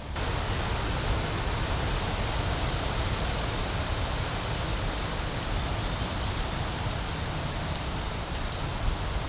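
Steady rushing of flowing river water, an even hiss with a low rumble, with a few faint ticks near the end.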